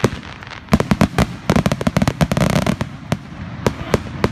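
Fireworks show: rapid bangs and crackling reports from aerial shells, coming thick and fast for about two seconds after a brief lull, then thinning to scattered single bangs.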